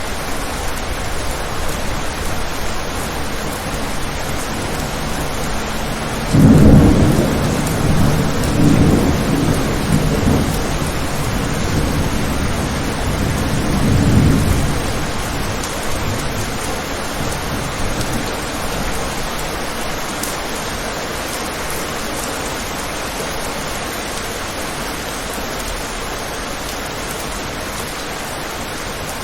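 Steady rain with a thunderclap about six seconds in, the loudest sound; it rumbles on in a few rolling swells for around eight seconds before fading back under the rain.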